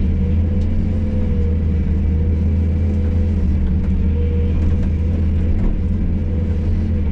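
Hydraulic excavator's diesel engine running steadily under load, a deep drone with a steady higher tone over it.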